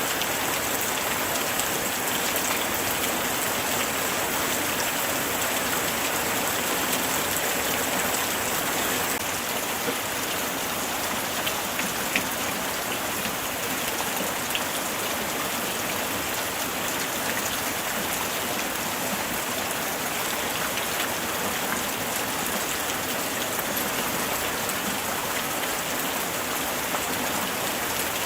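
Steady light rain falling, an even hiss of many drops with the odd louder single drop.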